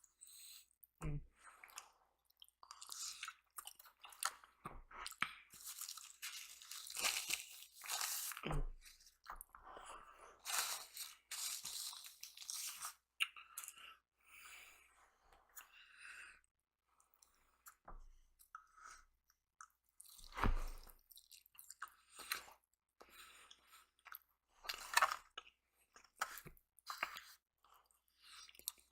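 Close-miked chewing and crunching of food, in irregular bursts, with a few dull thumps in between.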